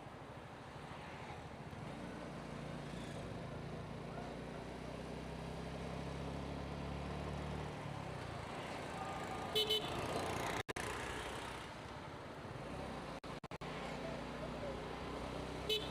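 Motorcycle engine running steadily along with road noise as the bike rides. A vehicle horn gives two quick beeps about ten seconds in and one short beep near the end.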